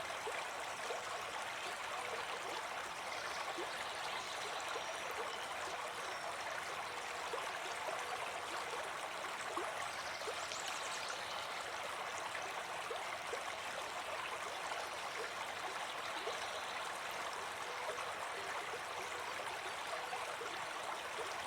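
Steady rushing of flowing water from a stream, even and unchanging throughout.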